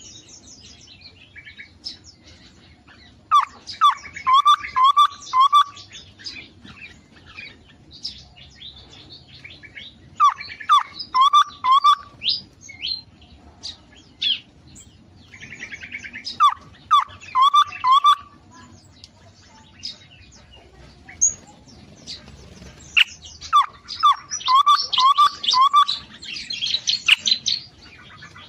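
Caged songbirds singing in an aviary. One bird repeats a short phrase of about five quick, rising whistled notes four times, about every six or seven seconds, while other birds chirp and twitter higher and more densely between and over the phrases.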